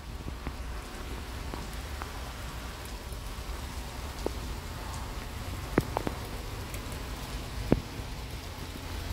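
Steady rain hissing, with a few sharp drops tapping a nearby surface, the clearest about four, six and eight seconds in.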